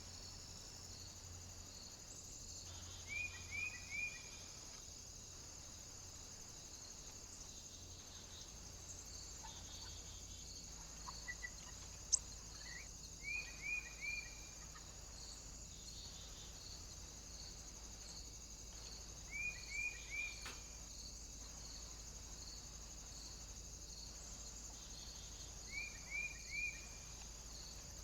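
Outdoor ambience: a short call of three quick notes repeats about every six seconds, over a steady high hiss with an even pulsing about once or twice a second. One sharp click comes about twelve seconds in.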